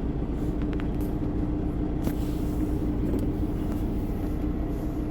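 Steady low drone of a semi-truck heard inside its cab, with a constant hum under it and a few light clicks.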